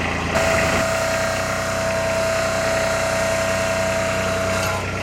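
Engine running steadily, with a single high steady whine laid over it from about half a second in until just before the end.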